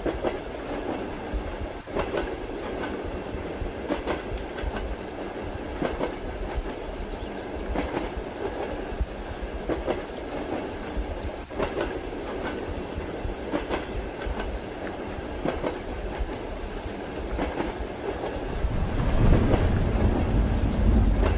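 Train wheels clacking over rail joints, a clack about every two seconds, over a steady rumble of the moving carriage and the patter of rain. A deeper rumble swells near the end.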